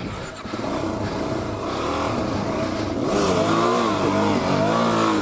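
Dual-sport motorcycle engine running and building up, then revved up and down over and over from about three seconds in, the throttle worked repeatedly.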